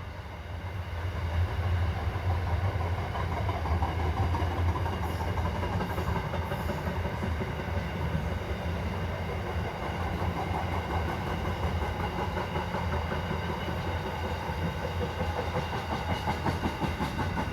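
Freight train wagons rolling past at steady speed: a continuous low rumble of wheels on rail with a regular clickety-clack of wheels over the track.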